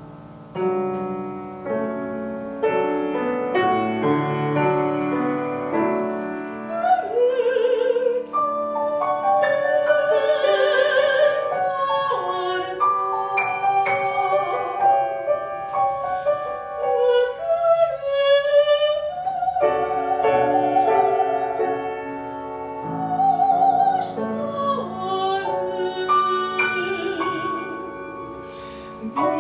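A classical soprano singing an art song with wide vibrato, accompanied by piano. The piano plays alone at first, and the voice enters about seven seconds in.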